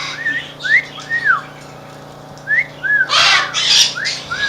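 African grey parrots calling: several short, arched whistles, then harsh squawks about three seconds in, then a couple more whistles near the end.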